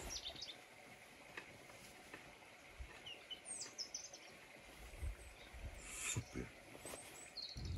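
Quiet outdoor ambience with a few faint, short, high bird chirps scattered through.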